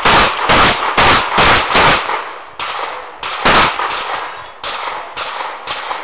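A competitor firing a rapid string of shotgun shots, about two a second for the first two seconds. A single loud shot follows a little after three seconds, then quieter reports further apart.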